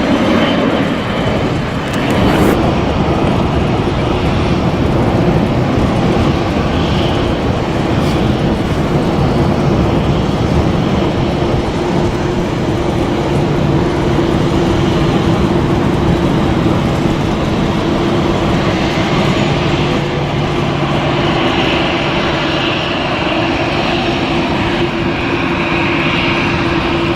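Airliner engines running at the airport: a steady, loud rumble with a held tone through it and a second, lower tone joining for a while in the middle.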